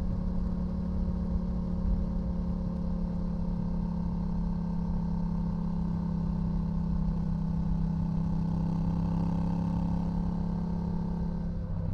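2018 Yamaha XSR700's 689 cc parallel-twin running through a full LeoVince LV One EVO exhaust, held at steady revs with an unchanging pitch over a low rumble.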